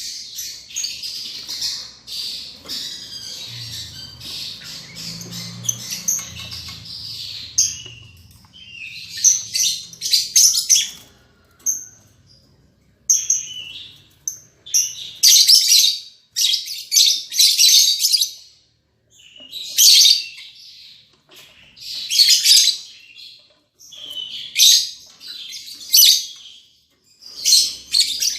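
Lovebirds chattering with shrill chirps, a dense run for the first several seconds, then breaking into short loud bursts of calls every second or two.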